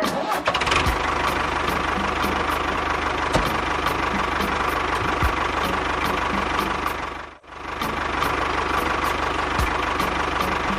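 Small engine of a mini construction machine running steadily with a regular chug. It drops out briefly about seven seconds in, then runs again.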